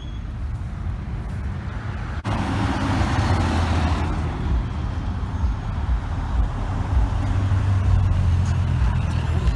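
Cars driving past, a low engine rumble with road and tyre noise. The sound jumps louder a couple of seconds in, with a broad hiss, and the rumble builds again near the end.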